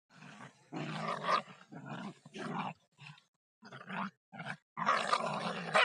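Dogs fighting, a series of short, harsh growls and snarls with brief gaps between them.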